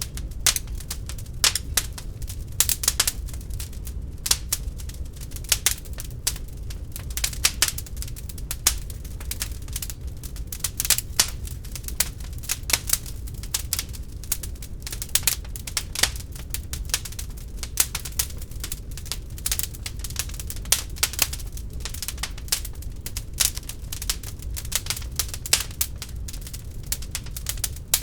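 Wood fire burning in an open fireplace, crackling and popping with many irregular sharp snaps over a steady low rumble of the flames.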